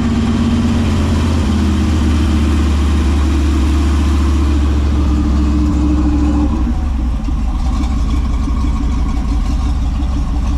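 Engine of a custom 1966 Chevrolet Corvair running at a steady idle, its note easing a little about six and a half seconds in.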